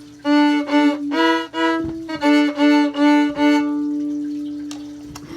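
Viola bowed in a quick run of short, loud notes, mostly on one pitch. The last note is held and fades away.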